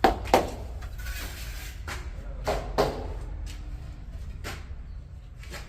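A handful of sharp knocks, two pairs in quick succession followed by two single ones, over a steady low rumble, with a brief hiss between the first pair and the second.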